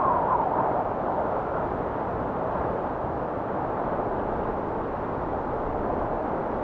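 Blizzard wind blowing steadily in a deep, even rush. At the very start a faint whistling tone wavers up and down, then fades within the first second.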